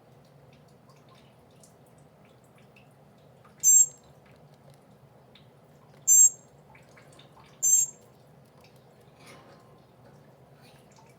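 Baby bird giving three short, shrill, very high-pitched calls a couple of seconds apart, the begging calls of a hand-fed nestling, over a faint steady hum.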